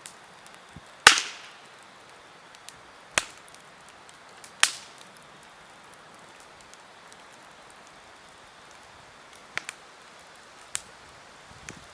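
Wood campfire crackling: sharp pops from the burning wood over a soft steady hiss, about five in all, the loudest about a second in.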